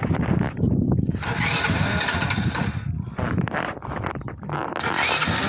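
Small 90-110cc quad engine just catching on sprayed carb cleaner and running unevenly. It sags and nearly dies past the middle, then picks up steadier near the end. The owner puts the rough running down to dirty fuel and a carburetor that needs cleaning.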